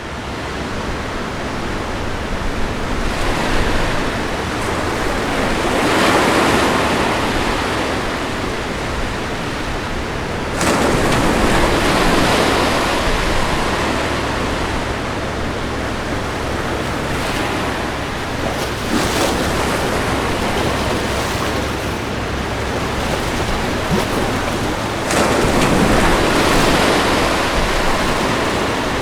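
Ocean surf breaking on a shore: a steady rushing wash of water that swells every few seconds as each wave breaks, two of the breaks arriving more suddenly than the rest.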